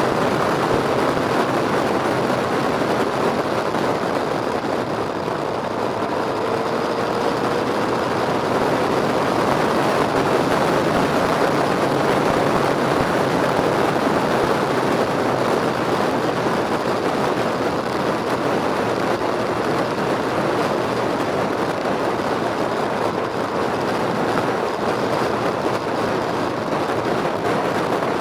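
Steady noise of a vehicle on the move, with a brief faint rising tone about six seconds in.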